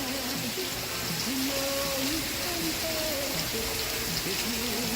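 Steady rain hiss, with a tune of held notes stepping up and down playing under it.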